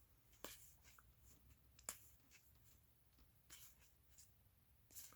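Near silence, with a few faint clicks and rustles of trading cards being handled and slid from the pack.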